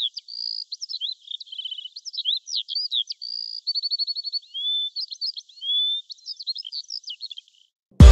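A songbird singing a quick, varied song of high chirps, trills and whistled slides with short pauses between phrases; it stops about seven and a half seconds in. Loud electronic music with a heavy beat cuts in suddenly right at the end.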